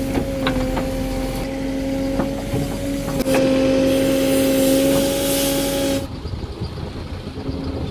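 Heavy machinery running with a steady high-pitched drone, with a few sharp knocks along the way. It cuts off abruptly about six seconds in, leaving a lower, rougher running noise.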